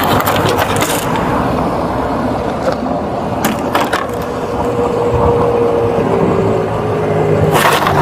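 Vehicle cabin noise during a pursuit, picked up by a body-worn camera: steady engine and road noise with scattered clicks and scraping of the camera rubbing against clothing and gear.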